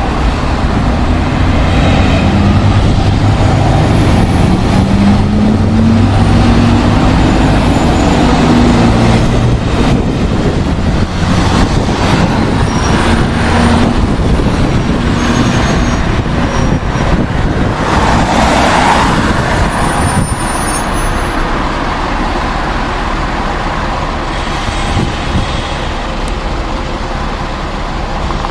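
Jet airliner's engines rumbling loudly as it passes, with a tone that rises in pitch over the first several seconds, then slowly fading. A brief rush of noise comes about eighteen seconds in.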